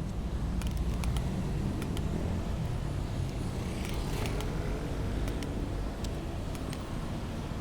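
Road traffic with cars passing, over a steady low rumble, with scattered light clicks and rattles throughout.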